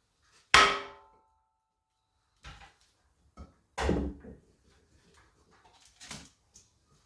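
Hammer blows on a timber block against a seized piston in a Chrysler 440 marine engine, four knocks, the first sharp with a short ring and a heavier dull one near the middle. The piston is rusted fast in its bore and does not shift.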